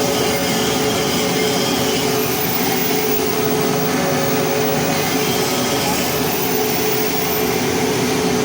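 Steady machine drone: a constant hum with an even hiss that holds level and unbroken throughout.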